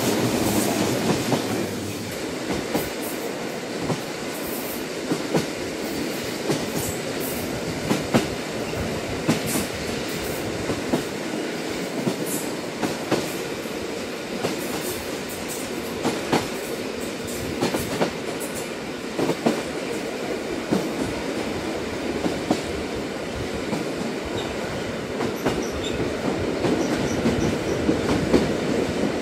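Train running steadily: a constant rumble of wheels on track, with scattered sharp clicks and clacks about once a second as the wheels pass rail joints.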